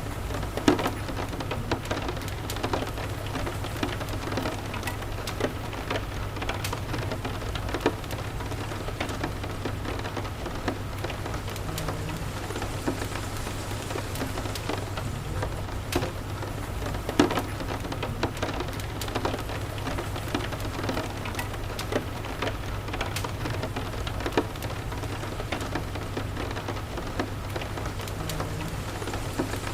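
Steady rain falling on the house, with scattered sharp crackles and pops from a wood fire in the fireplace, over a low steady rumble.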